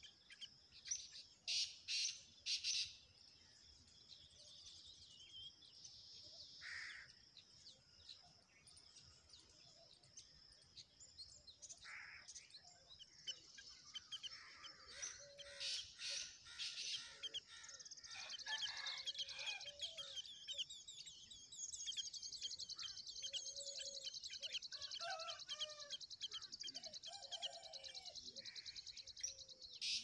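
Birds chirping, with short sharp chirps in the first few seconds and scattered calls later, over a steady high-pitched hiss that turns into a fast, even trill in the second half.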